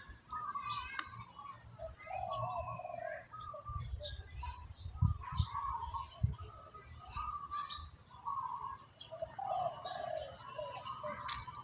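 Birds chirping and calling, many short overlapping calls, with a few low thumps about halfway through.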